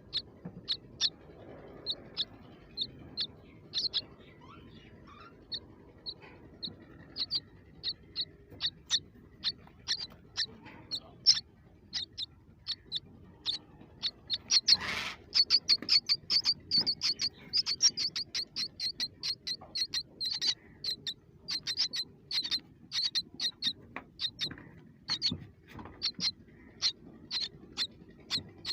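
Baby birds cheeping: short, high chirps repeated one after another. After a brief rustle about halfway, the chirping turns rapid and nearly continuous.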